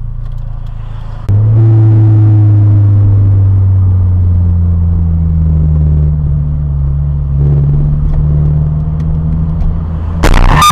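A car's engine and road drone heard from a dash cam, a low steady hum that jumps abruptly louder about a second in and then sags slowly in pitch. A loud sudden noise breaks in near the end.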